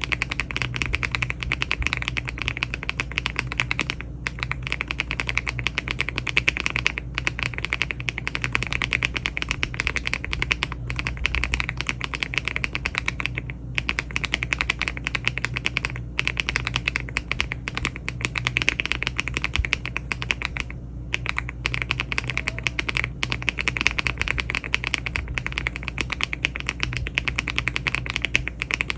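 Fast, continuous typing on a LEOBOG Hi75 aluminum mechanical keyboard fitted with HMX Lotus switches (62.5 g) and Cherry-profile keycaps. It is a dense run of key clacks with a few short pauses.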